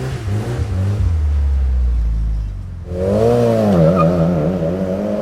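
Car engines revving: a deep low exhaust note for the first few seconds, then, about three seconds in, a higher engine note that wavers up and down as the revs are held and varied.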